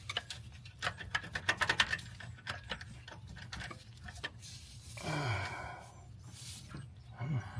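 Hand ratchet wrench clicking in a quick run of sharp ticks, then scattered clicks of tools on metal, over a low steady hum. About five seconds in there is a short vocal sound that falls in pitch, like a grunt of effort.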